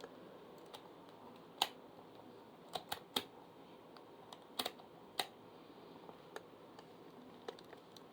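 Irregular sharp clicks and taps of hard plastic parts of a freshly assembled electric fan being handled, about a dozen in all, several close together in the middle.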